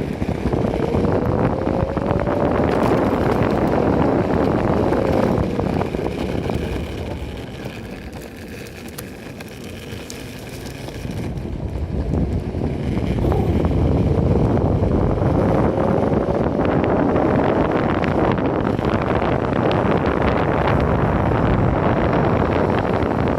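Electric skateboard riding: wind buffeting the microphone over the rumble of the wheels on pavement, with a faint whine that rises in pitch twice as the board speeds up. The noise eases off in the middle before building again.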